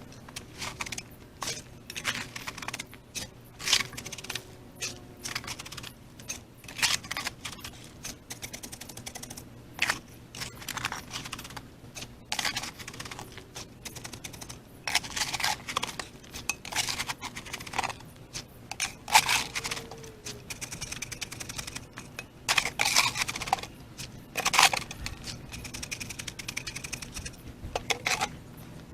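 Hand tools working concrete: irregular scrapes, clinks and knocks, one every half second or so, with a faint steady hum underneath.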